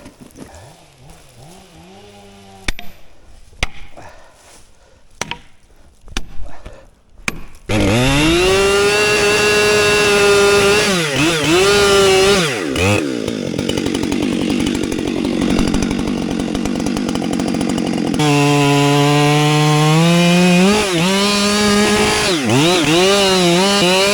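A two-stroke chainsaw at close range. There are a few sharp clicks, then about 8 seconds in the saw suddenly runs at full throttle. Its pitch dips and recovers several times as it bogs under cutting load in wood, and it falls to a lower pitch about 18 seconds in before revving back up.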